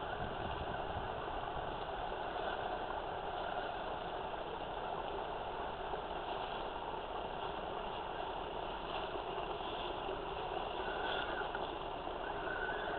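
Electric motor and gearbox of a radio-controlled crawler truck whirring steadily as it drives, with a faint higher whine about eleven seconds in and again near the end.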